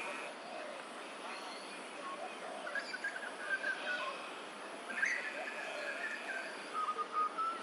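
Several birds calling outdoors in a series of short chirps and whistles over a steady background hiss, with a steady high buzz from about five to six and a half seconds in.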